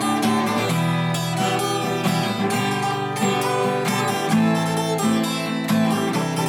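Acoustic guitar strummed in a steady rhythm, an instrumental break in a rock song.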